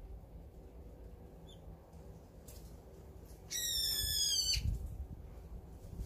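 A bird gives one loud, drawn-out call lasting about a second, a little past halfway, slightly falling in pitch. A faint short chirp comes before it.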